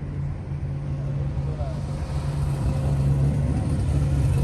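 A car engine idling with a steady low rumble, growing a little louder toward the end.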